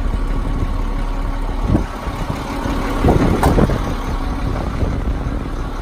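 A 2003 International 7400 bucket truck's diesel engine running steadily, with a brief rustle and a sharp click about three seconds in.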